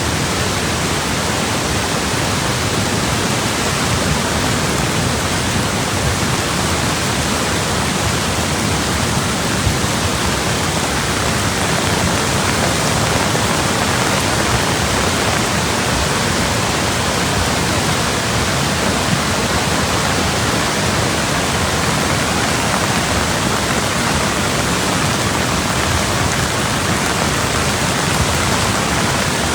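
Monsoon floodwater rushing in a loud, steady torrent.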